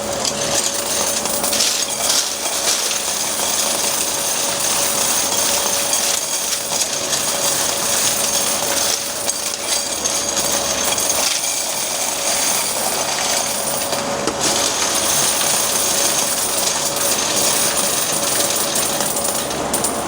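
Coin counting machine running, a rapid continuous clatter of wet quarters feeding through it over a steady motor hum.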